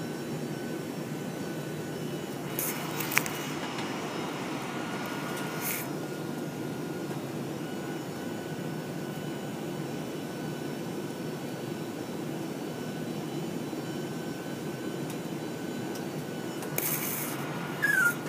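Steady airliner cabin noise inside a Boeing 747-400 in flight: the constant rumble of the engines and the air rushing past the fuselage. Brief rustles and a click come about three seconds in, and again shortly before the end.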